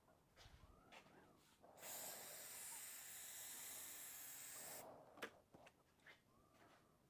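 A steady spraying hiss of about three seconds, starting about two seconds in, as from an aerosol can or an air nozzle, with a few faint clicks and handling sounds around it.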